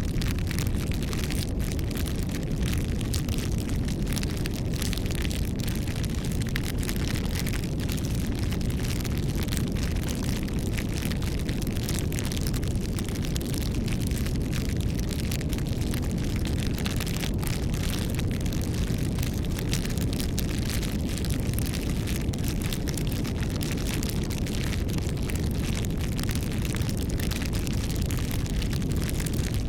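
Campfire burning: wood crackling in dense, irregular small clicks over a steady low rumble.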